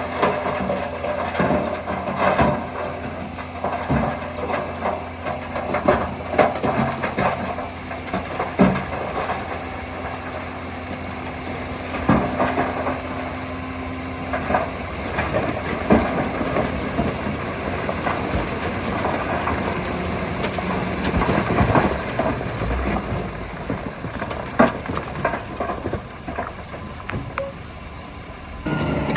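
Heavy earthmoving machinery at work: an engine running steadily under irregular clanks and knocks. The sound changes abruptly near the end.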